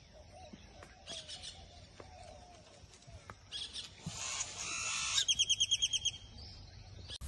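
A bird calls a rapid series of about ten short, high notes lasting about a second, a little past the middle. Before it come two short bursts of soft hissing noise.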